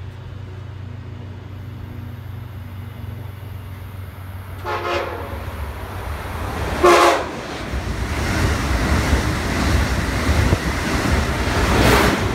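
Amtrak Acela Express high-speed trainset sounding its horn in two short blasts, the second louder, then a rising rush of wheels and air as it approaches and passes at speed.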